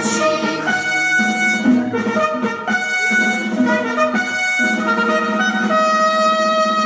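Instrumental music led by brass (trumpets and trombones) playing a melody in held notes, settling onto one long sustained chord near the end.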